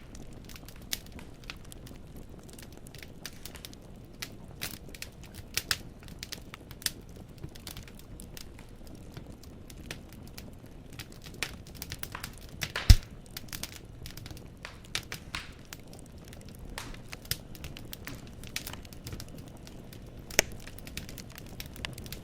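Logs burning in a fireplace, crackling with many small irregular pops over a low steady rumble. There is one loud sharp pop about 13 seconds in and another near the end.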